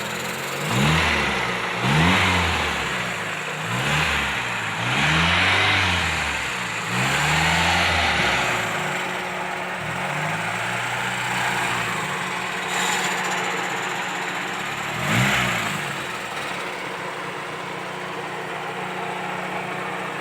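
1995 Toyota Corolla XL's carbureted 1.3-litre four-cylinder engine revved in a series of short blips, then settling to a steady idle, with one more quick rev about fifteen seconds in.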